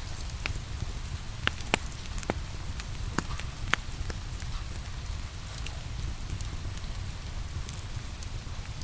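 Wood fire crackling with scattered sharp pops over a steady hiss of rain and a low rumble.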